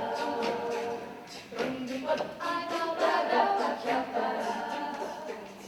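A cappella vocal group singing in close harmony without instruments, several voices holding chords that move phrase by phrase, with a short dip about a second and a half in.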